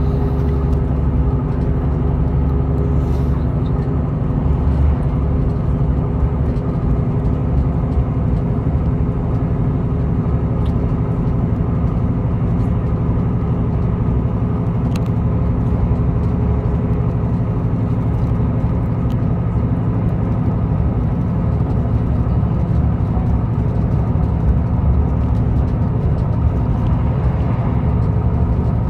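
Interior of a Class 158 diesel multiple unit running at speed: the steady drone of its underfloor diesel engine over the rumble of wheels on rail, with a few faint clicks.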